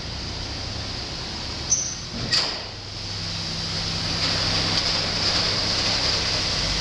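2003 Pontiac Grand Am GT's 3.4-litre V6 running steadily with an even hum; the engine is judged to sound good. A sharp click and a brief thump come about two seconds in, and the engine sound grows somewhat louder about three seconds in.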